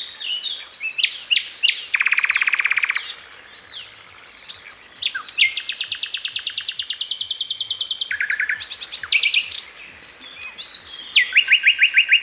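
A songbird singing a fast, varied song of chirps and quick sweeping notes. It breaks into rapid trills: a lower, buzzy one about two seconds in, a long, high, fast trill lasting about three seconds from near the middle, and shorter rattling runs toward the end.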